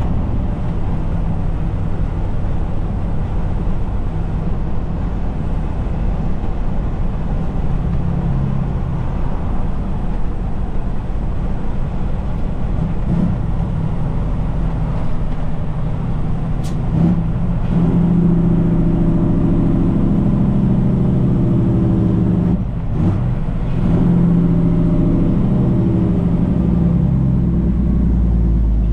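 Truck engine heard from inside the cab while driving, a steady low drone. About two-thirds of the way through the engine note grows stronger and fuller, with a brief dip a few seconds later.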